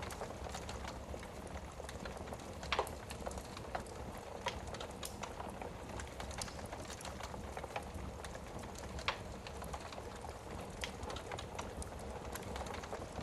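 Wood fire burning in a fireplace: many small crackles over a steady low rumble. A few louder pops stand out, about three seconds in and again about nine seconds in.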